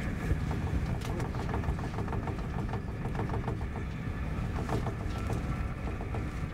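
Cabin noise inside an SJ X2000 high-speed train under way: a steady low rumble with faint, irregular clicks and rattles over it.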